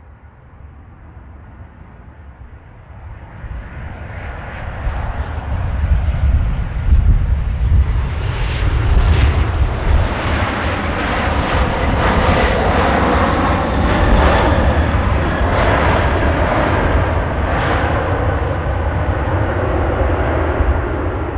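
Jet airliner's engines, growing steadily louder over the first several seconds as the aircraft draws near, then holding a loud, even rumble and hiss.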